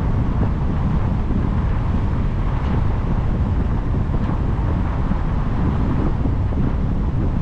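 Steady rumble of wind buffeting the microphone, mixed with the road noise of a car being driven.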